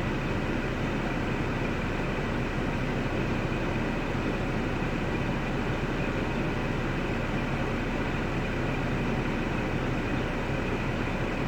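3.6 L LY7 V6 engine of a 2005 Cadillac STS idling steadily, started by powering the starter relay directly because the car won't crank from the ignition switch.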